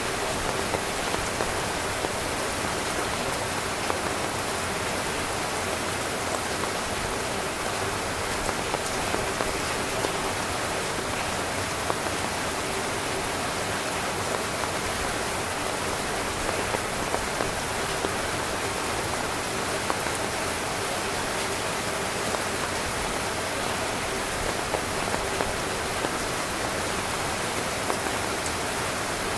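Heavy, steady rain drumming on tent fabric, a dense hiss with scattered louder drop hits.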